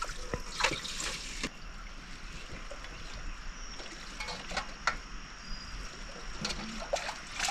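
Water trickling and splashing, with a few light clicks of pots and dishes.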